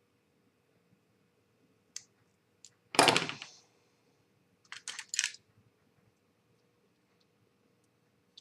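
Small plastic model-kit parts being handled and fitted together: a couple of light clicks, a louder knock-like noise about three seconds in, then three quick clicks or scrapes close together.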